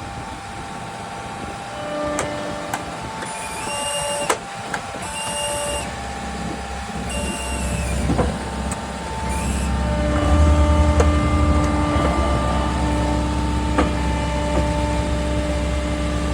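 New Holland C362 skid steer's diesel engine running with a steady hydraulic whine as it works, with a few short hisses in the first half. The engine bears down harder about ten seconds in.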